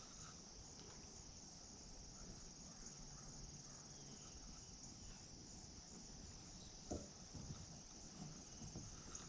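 Faint, steady high-pitched insect trilling, with a single soft click about seven seconds in.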